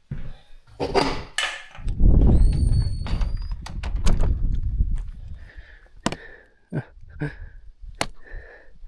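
Knocks and clunks of a wood fire being tended, with firewood handled in and around the stove. A low rumble lasts a few seconds starting about two seconds in, with a brief high squeak over it, then scattered sharp clicks and knocks.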